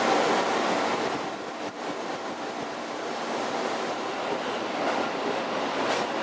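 Steady rushing noise inside the passenger car of an electric commuter train, heard at the side window as the train runs. A louder stretch of noise cuts off abruptly about a second and a half in, and the quieter running noise carries on.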